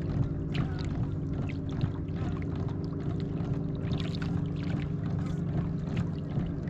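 Boat motor running steadily at trolling speed, a constant low hum with even overtones, with short sharp ticks and splashes scattered over it.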